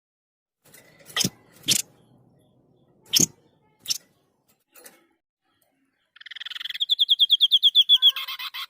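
A white-breasted babbler (burung sniper) calls with a rapid, even trill of about ten notes a second at a steady high pitch, starting about six seconds in and lasting some two and a half seconds. A few sharp clicks come before it.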